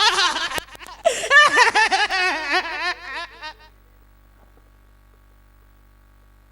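A woman's high, wavering, wordless wail with a rapidly shaking pitch, breaking off after about three and a half seconds into quiet room tone.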